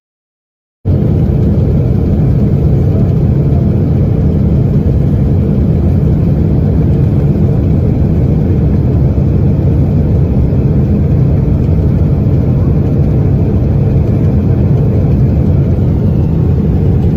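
Loud, steady, low rumbling noise of a Boeing 777 flying with a failed, burning engine. It starts suddenly about a second in.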